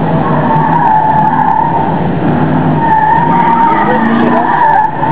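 1951 Chevy pickup truck running hard through autocross turns, its engine pulling under throttle while the tyres squeal in two long wavering squeals, the second lasting nearly two seconds.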